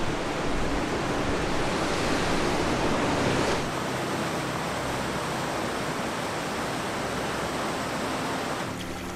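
A steady rush of flowing water with no distinct events. It drops abruptly in loudness about three and a half seconds in.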